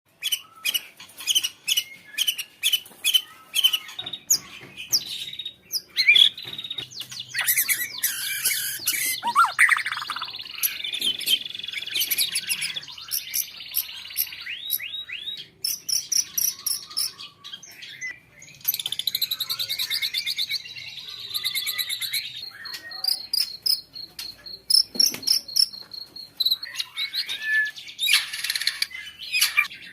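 White-rumped shama (murai batu) in full song: a fast, ever-changing run of whistles, trills and clicking notes. About two-thirds of the way through it holds a long string of rapid, evenly repeated notes.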